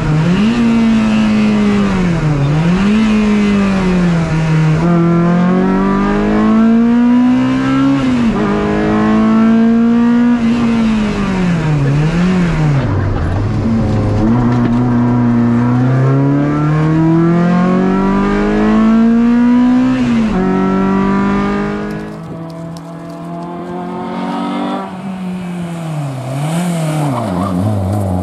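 Peugeot 106 rally car's four-cylinder engine at high revs on a stage, heard from inside the cabin. The revs climb and drop sharply again and again as the car is driven through the gears. For the last few seconds the engine is quieter, heard from the roadside as the car revs through a corner.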